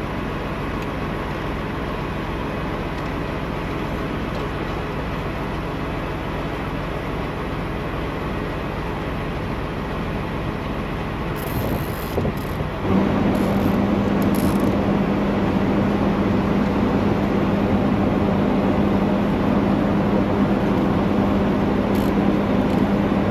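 Diesel semi truck idling: a steady engine drone that gets louder about 13 s in, with a strong steady hum added from then on.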